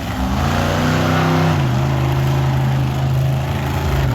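Monster truck engine revving hard, its pitch climbing over about the first second and a half, then dropping a little and holding steady.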